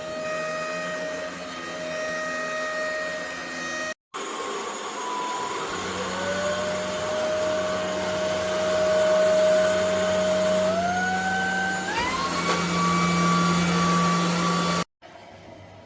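ElecKeys K10 cordless stick vacuum's motor running with a steady whine. After a short break it spins up again, and its pitch steps up twice in quick succession to a higher speed.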